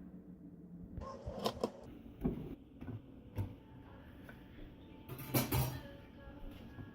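A few scattered light knocks and clatters with quiet in between, the loudest a quick pair near the end.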